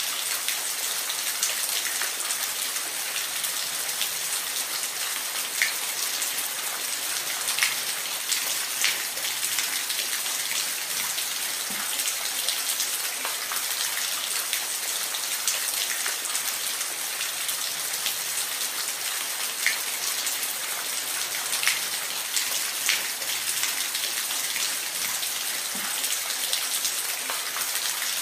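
Steady rain falling, an even hiss with distinct drops ticking sharply on a hard surface here and there.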